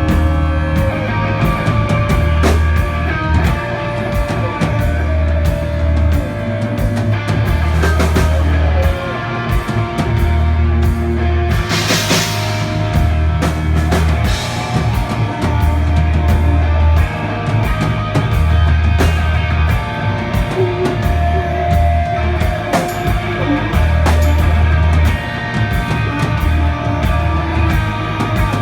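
Rock band playing live, loud: electric guitar, bass and drums, with a cymbal crash about twelve seconds in.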